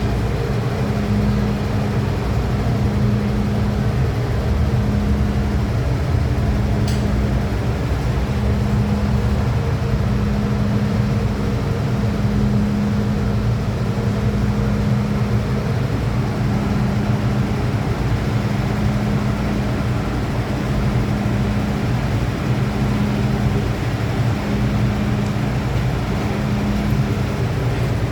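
Steady hum and rumble of an MTR M-Train. A low tone in it cuts out briefly every couple of seconds, and there is one faint click about seven seconds in.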